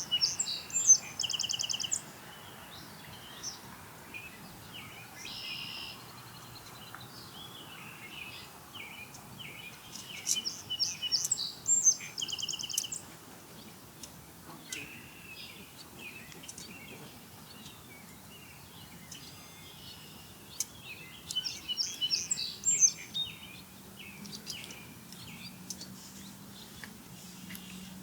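Ospreys calling: three bouts of rapid, high, whistled chirps, with scattered single chirps between them.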